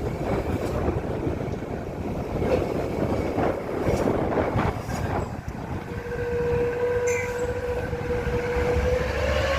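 Heavy truck on the move: engine rumbling with rattles and knocks from the body, and a steady whine setting in about six seconds in.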